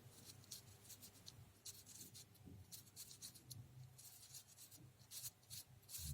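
Faint, irregular papery clicking and scratching from a working paper model of a radial engine, its small paper parts rubbing and ticking as they move.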